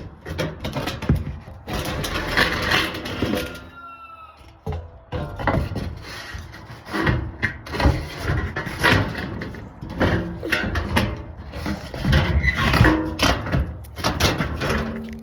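A large metal sheet being shoved and worked into place: repeated knocks, clatters and scraping, with a brief squeak about four seconds in.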